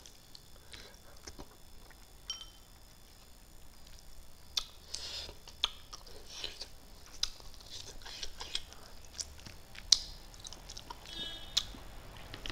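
Close-up mouth sounds of a person eating fish and rice by hand: scattered soft chewing smacks and small clicks.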